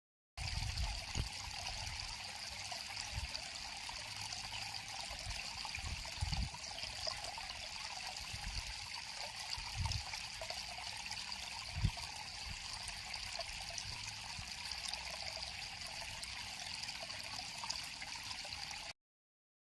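River water flowing and trickling: a steady, even babble with a few soft low thumps. The sound cuts in just after the start and stops abruptly near the end.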